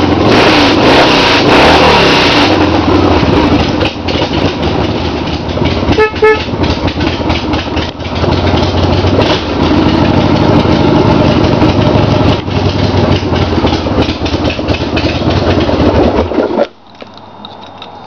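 1994 Harley-Davidson Sportster 1200's air-cooled Evolution V-twin running loudly after a cold start, then shutting off suddenly near the end. A brief beeping tone sounds about six seconds in.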